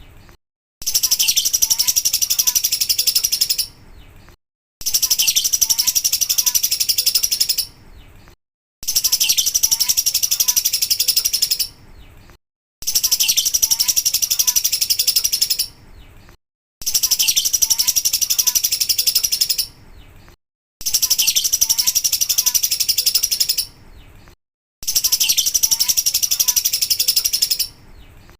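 Lovebird 'ngekek' song: a long, dense, high-pitched chattering trill. It is a recording looped about every four seconds, each pass cut off by a short gap of silence.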